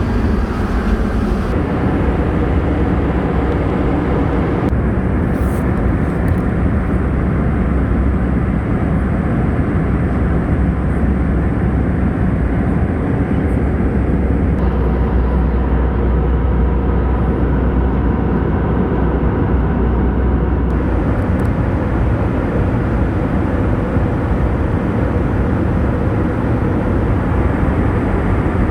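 Steady engine and airflow noise inside the cabin of an Airbus A319 airliner in flight, heavy in the low end and even in level, with a few abrupt shifts in tone.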